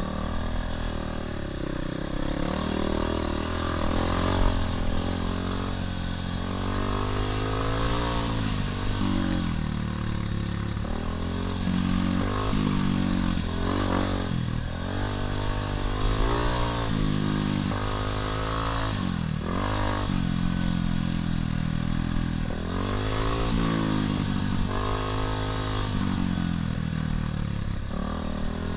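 Dirt bike engine running under throttle as the bike is ridden, its pitch climbing and dropping every few seconds as the rider opens and closes the throttle and shifts.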